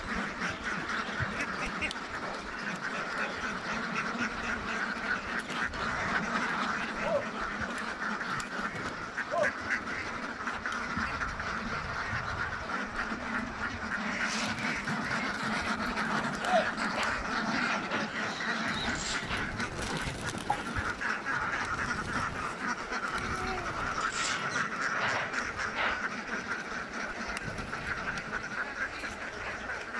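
A large flock of domestic ducks quacking without pause, hundreds of overlapping calls blending into a steady din, with a few sharp clicks near the middle and towards the end.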